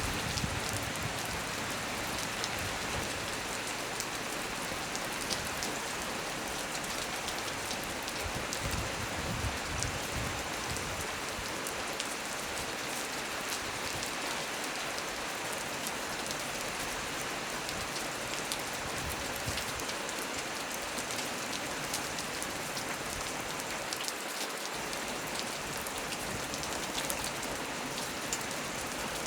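Heavy rain falling steadily on a small tree's leaves, with many single drops ticking sharply close by.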